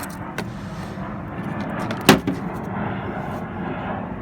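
A steady low rumble, like a vehicle running, with one sharp bang about two seconds in.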